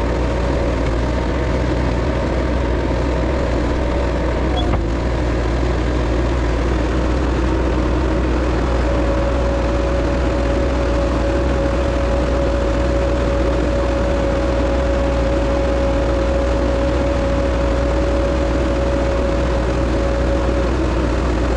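Bobcat 773 skid steer running steadily under work, with a steady high whine joining about nine seconds in.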